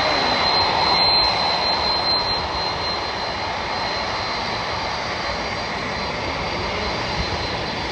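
Boeing 747-400 freighter's four jet engines running with a steady rushing noise and a thin high whine on arrival. The sound eases slightly after about two seconds, then holds.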